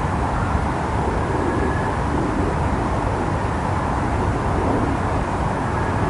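Steady city street ambience dominated by a low traffic rumble from passing vehicles.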